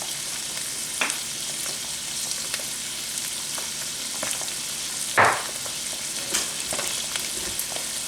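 Ground beef with onions and tomato sizzling in a pan, a steady hiss. A few sharp knocks of a utensil against the pan break in, the loudest about five seconds in.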